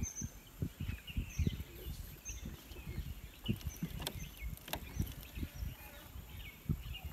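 Birds calling in short, high chirps, over frequent irregular low thumps. Two sharp clicks come about four and five seconds in.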